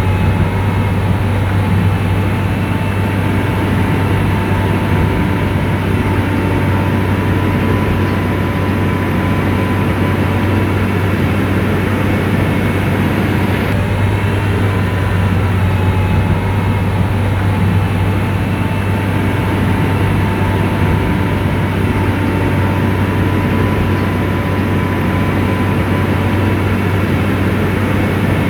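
Komatsu bulldozer's diesel engine running steadily with a strong low hum, and a thin steady whine above it.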